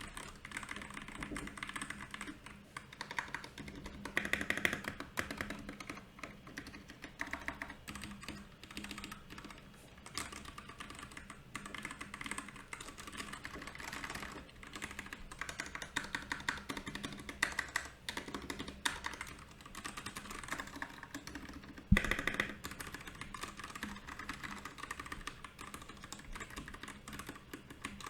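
Continuous fast typing on a Royal Kludge RK68 mechanical keyboard, with dense, irregular key clicks. One much louder knock stands out about three-quarters of the way through.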